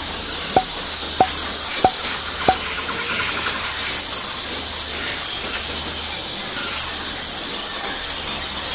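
Steady hiss, with a run of short, evenly spaced ticks, about two every second, over the first two and a half seconds.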